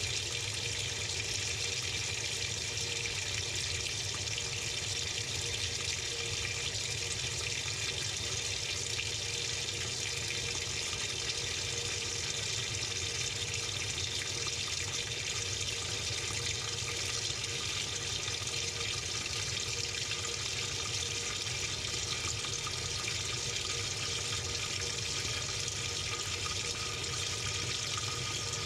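Water running steadily into the tub of a Samsung 6.5 kg top-load washing machine, heard from inside the drum, with a faint steady hum beneath it.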